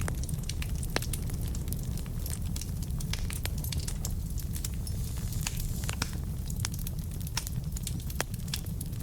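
Wood fire burning in a fireplace: logs crackling with frequent irregular sharp pops and snaps over a steady low rumble.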